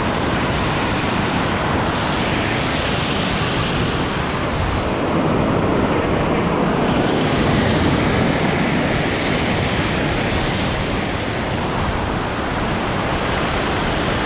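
Water rushing over a dam, a loud steady noise, with wind buffeting the microphone.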